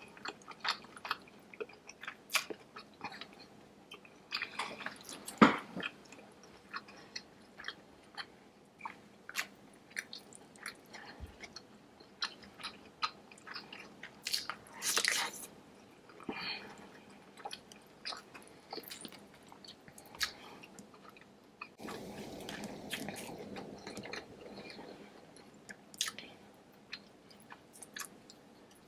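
Close-miked eating of saucy deshelled seafood: wet chewing, biting and lip smacks in irregular clicks, with one sharp smack about five seconds in.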